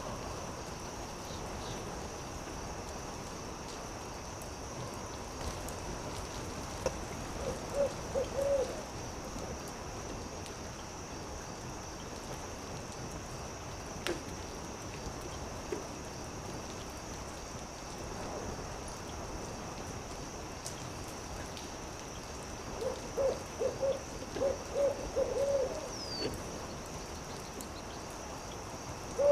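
An owl hooting in two runs of short, quick hoots: a brief run about a quarter of the way in and a longer one of about eight hoots near the end. Behind the hoots is a steady hiss with a few sharp pops.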